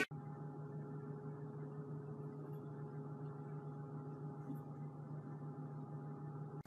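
A steady low hum made of a few fixed tones, unchanging throughout.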